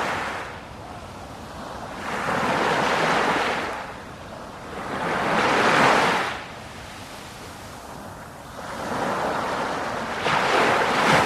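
Sea waves washing onto a shore in repeated surges a few seconds apart, each rising to a hiss and falling away.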